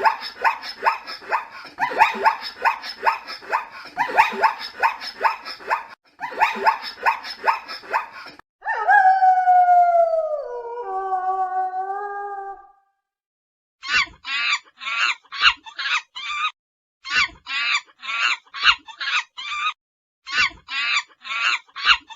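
Animal calls from different animals in turn. First comes a long run of rapid, repeated pitched calls, then one long call that falls in pitch and trails off. After a short pause come bouts of quick, high, upward-sweeping chirps.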